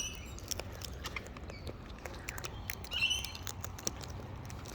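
Wild parrots feeding on scattered birdseed: many sharp, irregular clicks and taps of beaks pecking at seed, with a short, high chattering bird call at the start and another about three seconds in.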